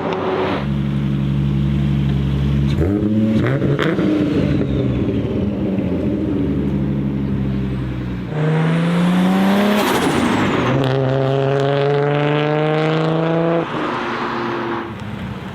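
Nissan Skyline R33's turbocharged RB25DET straight-six running hard and held at steady revs. About eight seconds in the revs climb quickly, then hold higher before dropping back near the end.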